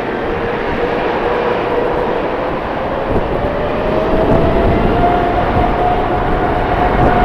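Jet airliner engines, a steady tone that climbs slowly in pitch partway through, over heavy wind rumble on the microphone.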